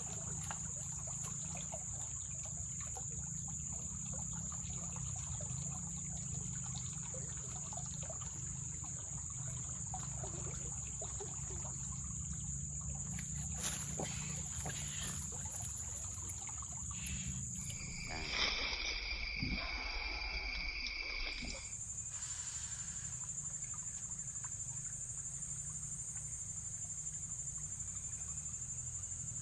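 Swamp ambience: a steady, high insect drone over a low rumble, with scattered faint ticks. About two-thirds of the way in, the drone breaks off for a few seconds while a different pair of steady tones sounds, then it returns.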